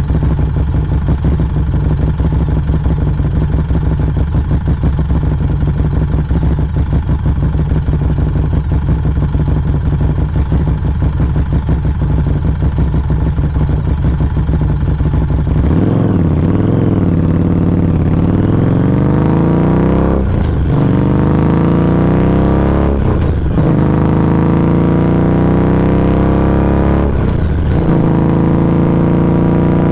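Harley-Davidson Street 500's V-twin engine heard close at its Firebrand Loose Cannon slip-on muffler, running steadily at low revs. About halfway through, it accelerates away with the pitch rising, then climbs through the gears with three brief drops in the sound at the upshifts.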